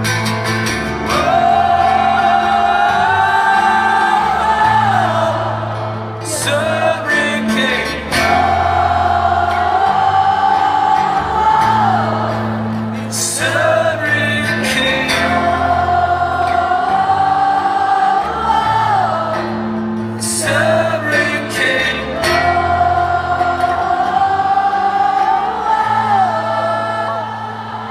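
Live rock band playing, with a wordless sung melody in four long, held phrases over steady bass and keyboard chords.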